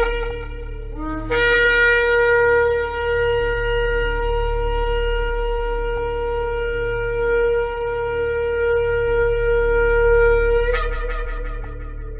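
Shofar sounded: a blast cuts off just after the start, then a short low note slides up into one long held blast of about nine seconds, which ends with a sharp upward break and dies away. A steady low hum lies underneath.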